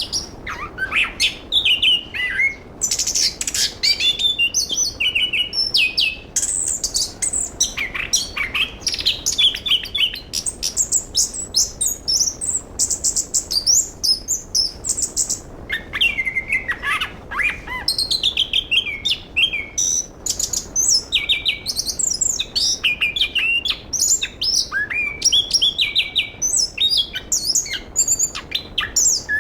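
Chestnut-capped thrush (anis kembang) singing a long, rapid, varied song of quick high whistles, trills and chattering phrases, with only a brief lull about halfway through.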